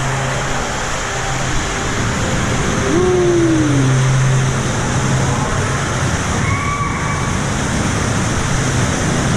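Water park lazy river water rushing and sloshing steadily, with a low hum underneath and brief distant calls from other people, one falling call about three seconds in.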